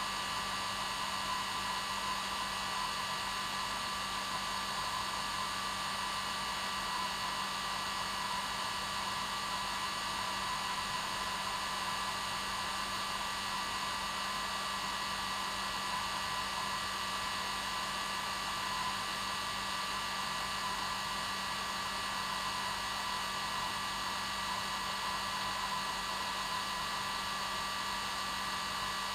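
Hair dryer running steadily on its normal setting, an even rushing blow with a steady whine in it.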